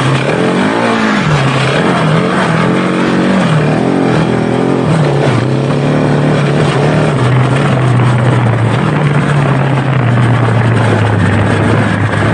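KTM 690 Enduro R's big single-cylinder engine running under load on a trail ride. Its pitch rises and falls with the throttle for the first several seconds, then holds steadier.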